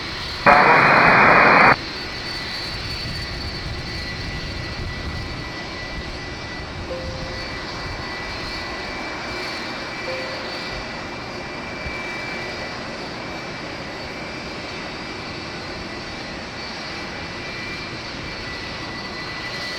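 Jet aircraft engines running steadily: a rumbling hiss with a thin, high turbine whine. About half a second in comes a loud burst of radio static lasting about a second, which cuts off sharply.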